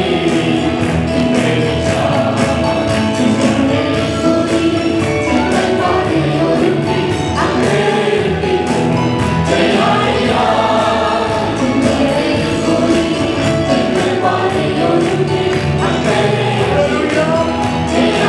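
Choir singing a gospel song with instrumental accompaniment and a steady percussion beat.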